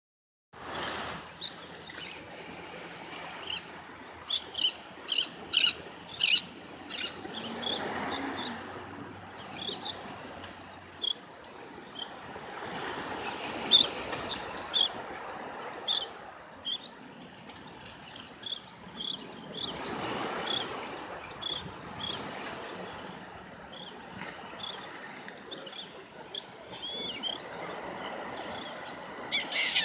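Birds calling in short, high chirps throughout, with a quick run of loud ones a few seconds in, over the wash of small waves that swells and fades every several seconds.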